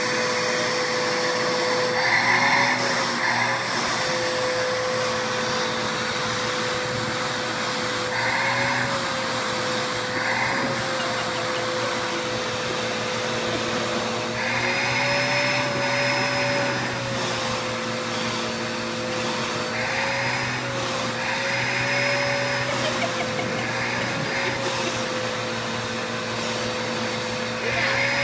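Vacuum cleaner running steadily. Several times its motor note lifts slightly and the rushing air swells as the nozzle is worked over a cat's fur.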